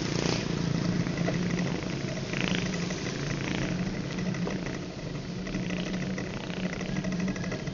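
Road traffic with motorcycle engines running steadily, plus the brief hiss of passing vehicles.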